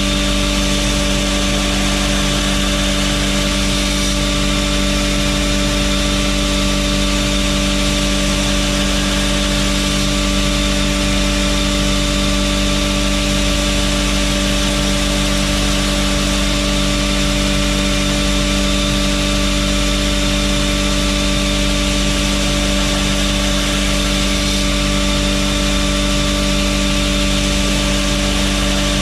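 Belt grinder running steadily: a constant motor hum with an even hiss from the abrasive belt.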